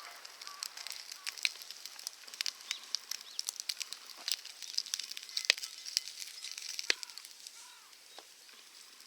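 Bacon frying in a pan over a wood fire: scattered sharp crackles and pops over a light sizzle, thinning out near the end.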